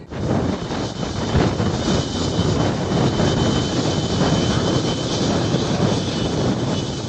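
Jet airliner's engines running loud and steady: a broad roar with a thin high whine held over it.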